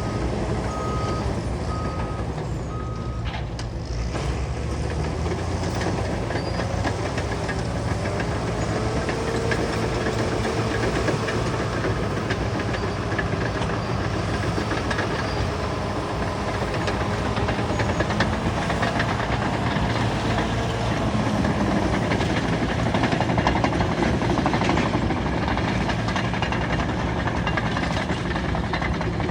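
Caterpillar bulldozer's diesel engine running under load, with a continuous clanking rattle, typical of its steel tracks. A backup alarm beeps four times in the first few seconds.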